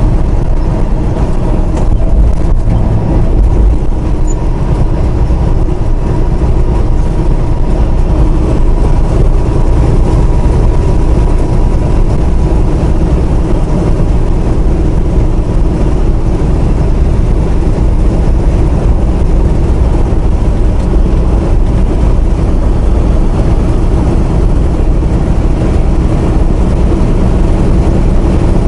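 Steady drone of a semi-truck's engine and road noise, heard from inside the cab while cruising, with no change throughout.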